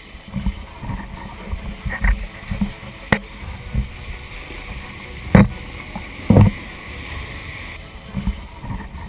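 Earthquake roaring: a deep, uneven rumble with sharp knocks or bangs through it, the loudest about five and a half seconds in and another about a second later.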